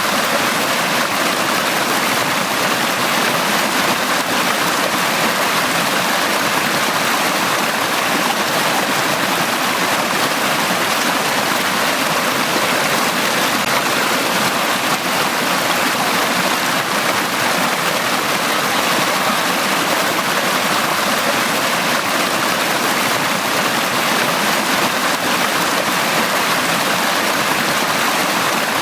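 A forest brook running steadily over rocks, a constant rushing and splashing of water.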